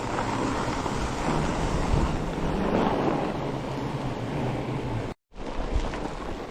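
Wind rushing over the microphone while riding a fat bike along a snowy trail, a steady noisy rush with the bike's rolling noise beneath it. The sound cuts out completely for a split second about five seconds in.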